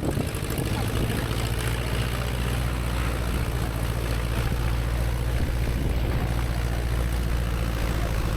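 Light aircraft's piston engine and propeller running steadily at low power on the ground.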